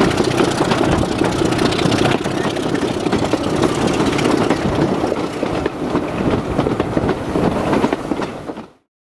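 Diesel locomotive running on a heritage railway, with a dense steady engine sound; it fades out and cuts off near the end.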